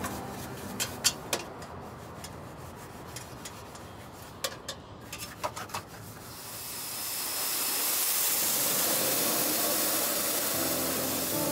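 A few sharp clicks and knocks, then a steady pressurized spray hissing from about six seconds in, as water or foam is sprayed onto the car during the wash. Music comes back in near the end.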